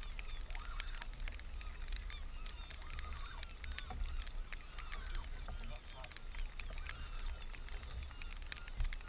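Many birds calling over and over, short overlapping calls with no pause, over a steady low rumble.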